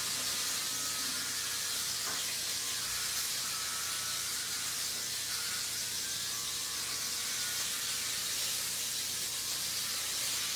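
Electric hair clippers running steadily while shaving a head: a constant low hum under an even hiss.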